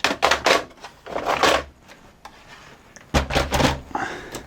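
Clicks and knocks of a VCR's loading mechanism and chassis parts being handled and fitted back into place, in three short clusters.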